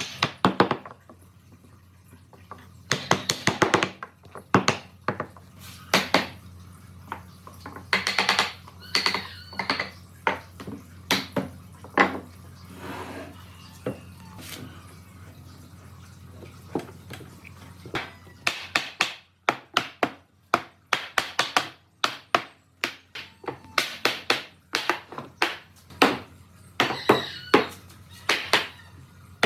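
Irregular knocks, taps and clatter of hand work with tools on wood, in quick runs with quieter stretches between, and denser near the end. A faint steady hum lies underneath.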